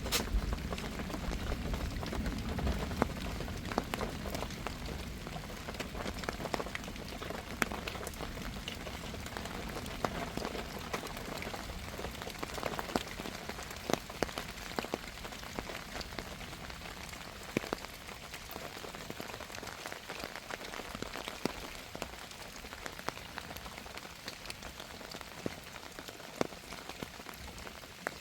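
Heavy rain falling, a steady hiss dotted with many sharp individual drop impacts, easing slightly toward the end.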